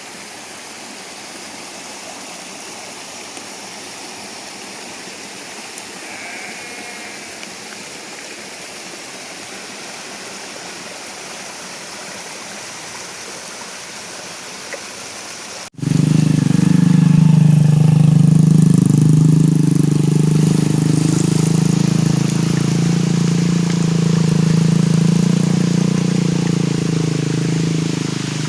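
Steady rain falling, then an abrupt cut about two-thirds of the way in to a much louder engine running close by: a low hum that wavers slightly in pitch and holds to the end.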